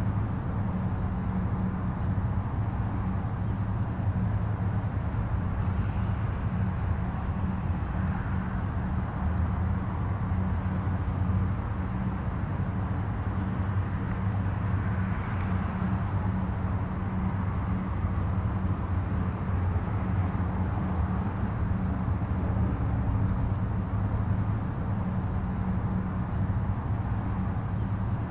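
Distant highway traffic: a steady low rumble and hum of many vehicles, with gentle swells as individual vehicles pass.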